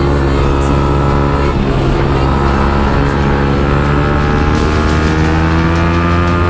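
Motorcycle engine through an Akrapovic exhaust, running under way. The note breaks briefly about one and a half seconds in, then climbs slowly in pitch as the bike accelerates.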